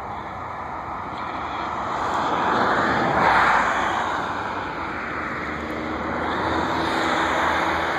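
DC-10 jet's engines as it passes by, a loud rushing roar that swells to a peak about three seconds in, eases off, then builds again.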